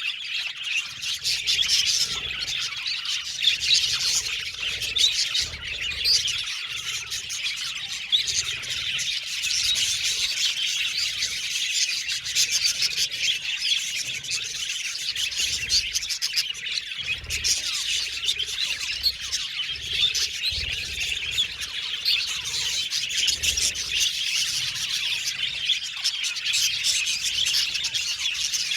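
A flock of budgerigars chirping and warbling continuously, a dense overlapping chatter of short high tweets and squawks.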